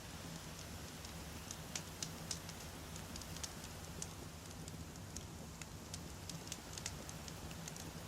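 Wood campfire crackling: irregular sharp pops and snaps of burning logs over a steady low rumble and hiss.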